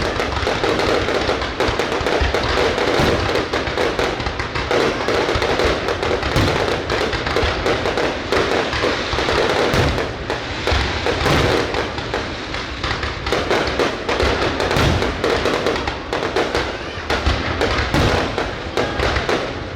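Fireworks going off in a dense, continuous barrage, many bangs overlapping with no pause.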